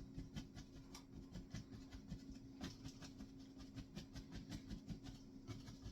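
An oval paintbrush dabbing and scrubbing acrylic paint onto a canvas: faint, irregular taps and scratches, a few a second, over a low steady hum.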